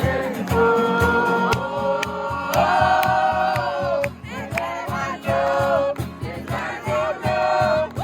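A group singing a worship song together, with long held notes over a steady quick beat.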